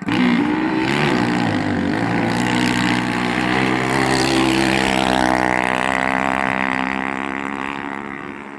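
Small 6.5 hp racing-boat engine setting off at high revs. It comes in suddenly, its pitch wavers for the first couple of seconds, then runs steady and fades away near the end.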